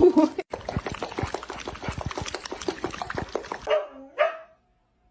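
Dog vocalising: a loud bark right at the start, a run of quick clicks and rattles, then a short whine that rises and falls about four seconds in.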